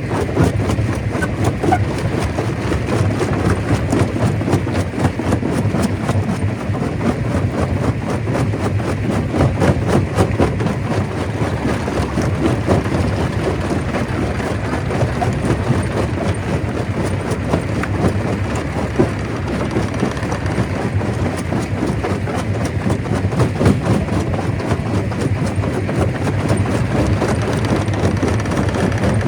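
Stone crusher machinery running steadily: a continuous low rumble with a dense rattle of clicks running through it.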